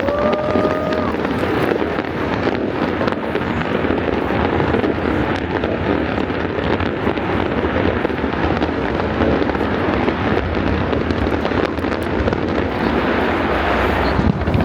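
Fireworks display: a continuous dense rumble of bursts, bangs and crackles, with a short whistle that rises and then holds at the very start.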